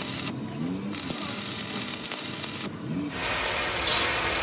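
Steady hissing workshop noise that cuts out briefly twice, then comes back fuller and louder for the last second or so.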